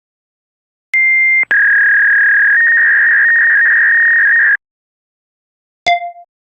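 Synthetic stock sound-effect tones. A short steady beep, then a steady tone with hiss lasting about three seconds, and about a second later a brief ping that dies away quickly.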